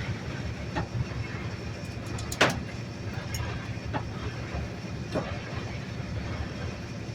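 Garbage truck's engine running steadily with a low rumble, with a few sharp knocks, the loudest about two and a half seconds in.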